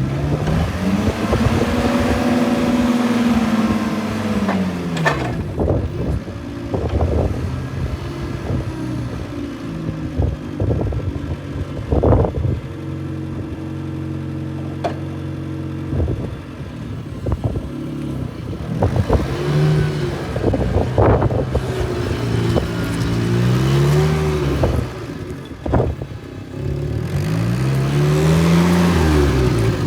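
TCM FG10 forklift's engine running and revved up and back down several times, with a stretch of steady idle in the middle. Clattering knocks sound throughout.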